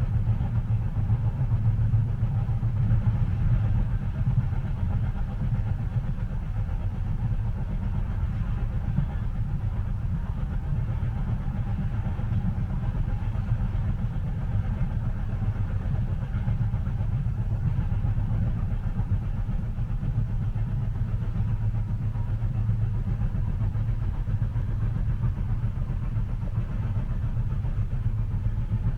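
Steady low rumble inside a moving train carriage, heard as a continuous, even drone without distinct track beats.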